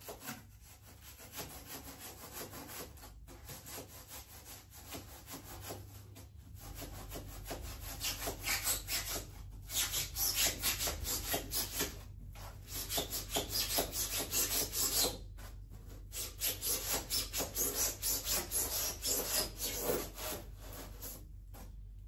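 A knife sawing through a styrofoam block in quick back-and-forth strokes, making a scratchy, squeaking rub. The strokes come in several runs with short pauses between them.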